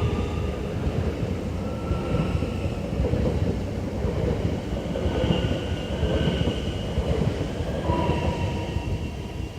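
Z50000 Francilien electric multiple unit pulling out and running past: a steady rumble of wheels on rail with thin high whines that come and go, easing off slightly near the end.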